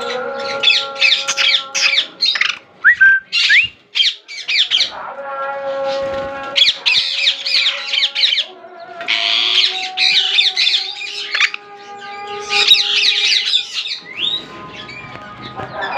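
Alexandrine parakeets squawking in repeated clusters of harsh, raspy calls, over steady held tones of background music.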